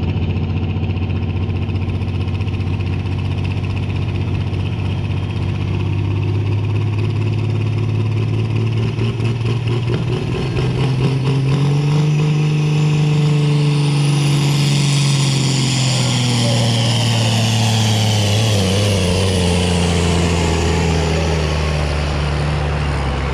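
Superfarm-class pulling tractor's engine running loud and steady. It revs up about halfway through and holds there while a high whine climbs and falls away, then the revs drop back near the end.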